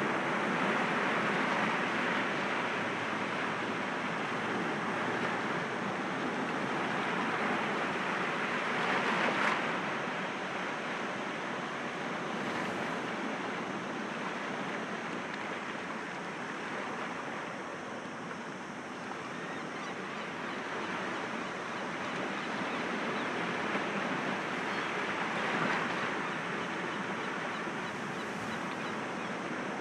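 Sea waves breaking gently against rocks: a continuous wash of surf that swells and ebbs, with louder breaks about nine seconds in and again near the end.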